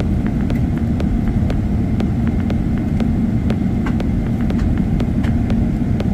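Airliner cabin during takeoff: a loud, steady low rumble from the jet engines and airflow, with frequent small clicks and rattles from the cabin fittings.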